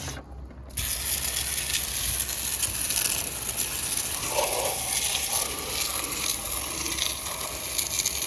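Garden hose spraying water onto a bare GM 5.3 V8 engine block to rinse off degreaser and sludge: a steady hiss of spray that starts about a second in.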